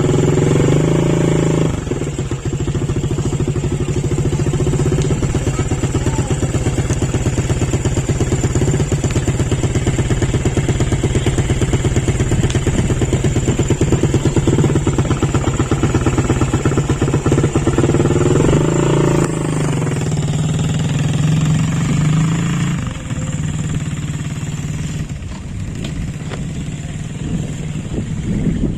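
A small engine running steadily with a fast, even pulse; its pitch shifts about two-thirds of the way through, and it gets quieter near the end.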